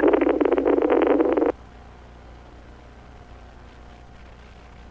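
Police radio channel, noisy and thin, with a transmission's open-carrier noise that cuts off sharply about a second and a half in; after that only a faint steady hum.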